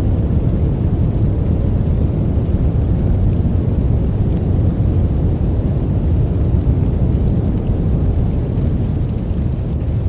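Steady white-noise sleep track: an even, deep hiss with most of its weight in the low end, unbroken and without rhythm.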